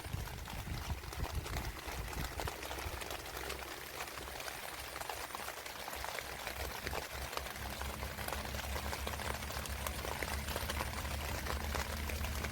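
Steady, dense patter of water, many tiny drops or bubbles at once, over a low steady rumble.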